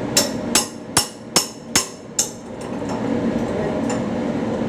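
Hammer striking metal, six quick blows about two-fifths of a second apart, then stopping, over a steady workshop hum.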